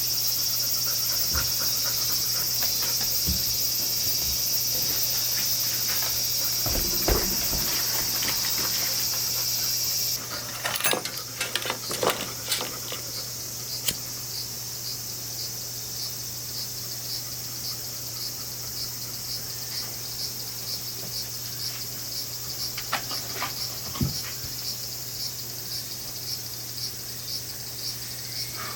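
Summer insects singing: a loud, steady, shrill chorus that drops away sharply about ten seconds in. It leaves a quieter, evenly repeating high chirping, with a few light clicks shortly after the drop.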